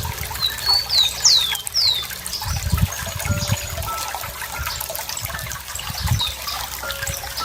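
Running water trickling and gurgling, with low surges now and then. A songbird gives a quick run of four or five descending whistled chirps about a second in, and one more near the end.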